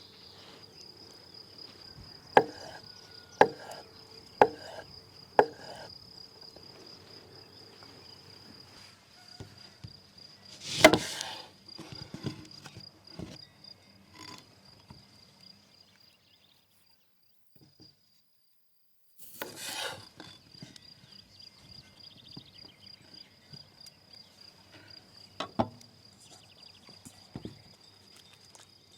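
Insects chirring steadily in a high, pulsing tone, with four sharp knife knocks on a cutting board about a second apart in the first few seconds. A louder clattering burst comes about eleven seconds in, and everything drops out for about three seconds past the middle.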